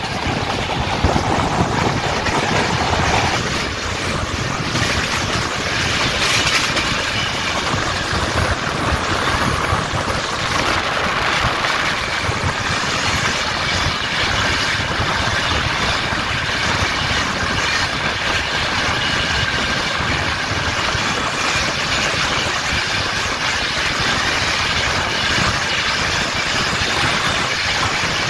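Two express trains running side by side at speed, heard from an open coach door: a steady rumble and rush of wheels on rails and passing coaches, with wind on the microphone.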